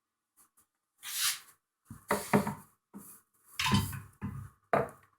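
Fireplace tool set being handled: several short scrapes and rustles with a few light knocks.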